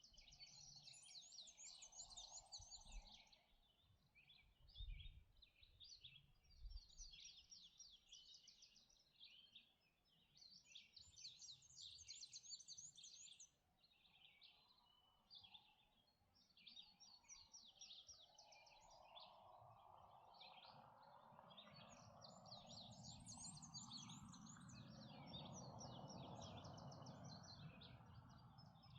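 Songbirds singing faintly at dawn, short rapid chirping phrases one after another. From a little past the middle a low rumble rises underneath them and grows louder toward the end.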